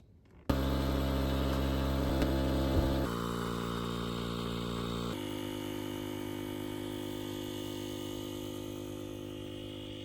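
Small electric pump motor running steadily while inflating an inflatable paddle board. The hum starts suddenly and shifts in tone twice.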